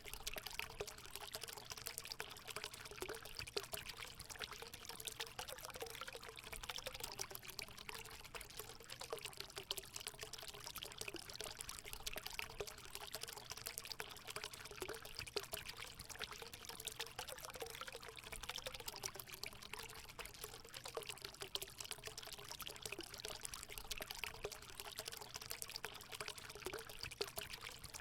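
Water running and splashing steadily into a hot spring pool, a continuous pouring trickle with a wavering gurgle beneath it.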